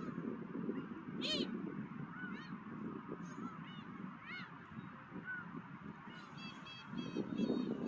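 Gulls calling: single arched calls every second or so, then a quick run of short calls near the end, over a steady low rumble of wind.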